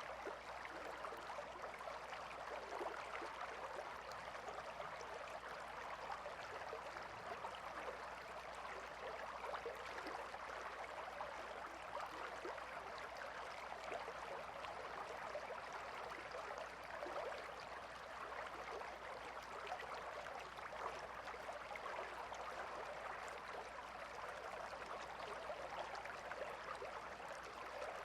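Calm river flowing, a steady even rush of running water with a fine babbling texture.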